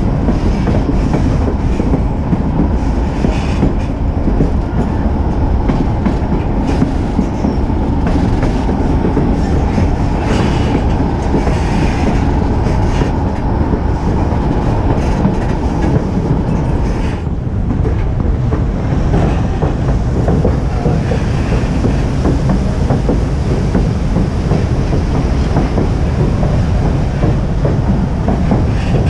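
White Pass & Yukon Route narrow-gauge train cars rolling along the track: a steady, loud rumble of wheels on rails with clickety-clack over the joints, heard from aboard.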